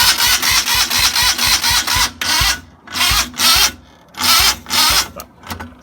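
Joyner Sand Spider 650cc four-stroke engine being cranked by its starter in one long burst and then three short ones, with a quick, even run of compression pulses. It does not catch, which the owners put down to a bolt that wasn't tightened.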